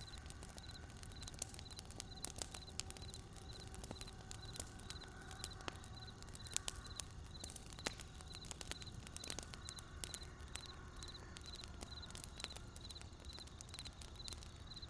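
Wood campfire crackling with irregular sharp pops over a low steady rumble, with a faint high chirp repeating about twice a second.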